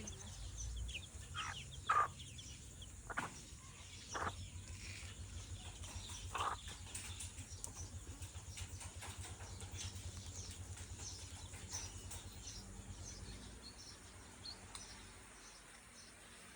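Chickens foraging: faint high chirps scattered throughout, with several sharp knocks in the first few seconds, over a low rumbling background.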